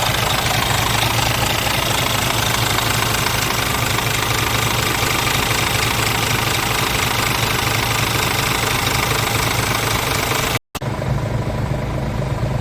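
Scania R truck's diesel engine idling steadily, with a strong low hum. The sound breaks off for an instant about ten and a half seconds in and then carries on duller.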